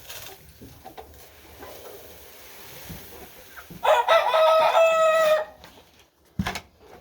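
A young rooster crows once, a loud call of about a second and a half beginning about four seconds in, over softer chicken clucking. A couple of sharp knocks follow near the end.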